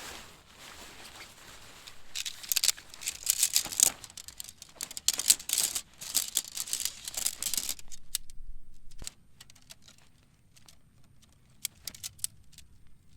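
Crinkling and rustling in bursts, like something plastic or fabric being handled, then a few scattered light clicks and taps in a quieter stretch from about eight seconds in.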